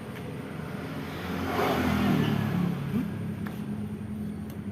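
A motor vehicle engine running steadily, growing louder about a second and a half in and easing off again, with a short rise in pitch near the end.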